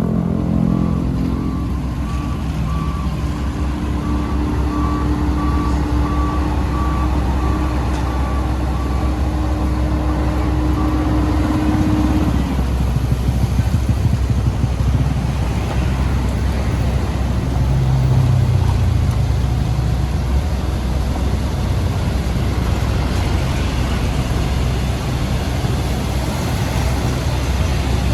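Diesel engines of heavy road-construction machinery running steadily, with a reversing alarm beeping about once a second for the first eleven seconds or so.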